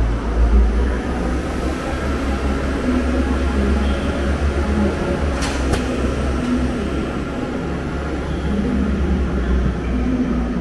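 Train at a station platform: a steady low rumble with a faint whine above it, and two sharp clicks about halfway through.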